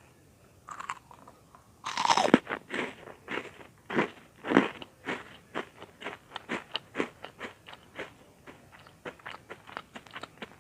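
Close-up crunching as crisp butter-baked bread cubes are bitten into about two seconds in, then chewed with quick, crisp crunches that grow lighter.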